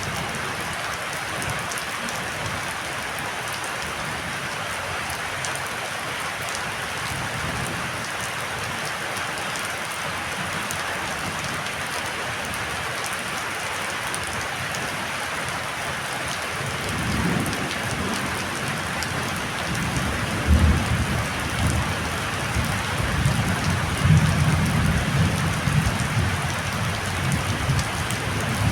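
Heavy storm rain falling steadily. A little over halfway in, deep irregular rumbling joins it, swelling and easing, with a few louder peaks.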